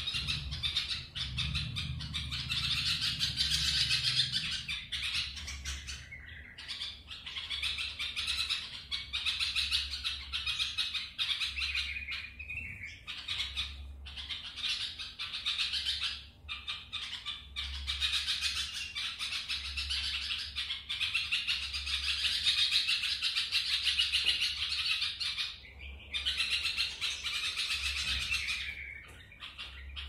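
Young birds chirping and squawking in long runs of rapid calls, each run lasting several seconds and broken by short pauses.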